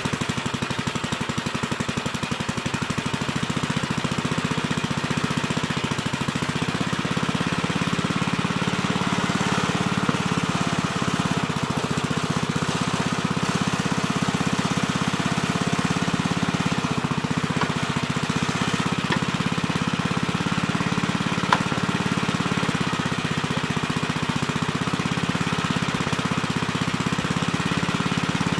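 Gravely Terramite compact backhoe's engine running steadily with a fast, even firing beat while it digs.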